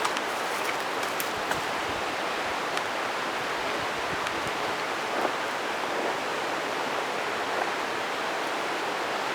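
Steady rushing of river water, with a few faint light clicks scattered through it.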